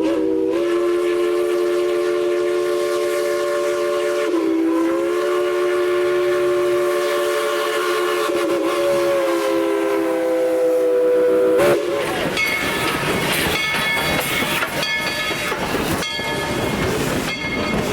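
Chime steam whistle of narrow-gauge steam locomotive No. 190 (the Yukon Queen) sounding one long blast of several notes at once, dipping briefly in pitch about four seconds in, then cutting off sharply near twelve seconds. After it comes the clatter of the train rolling on the rails.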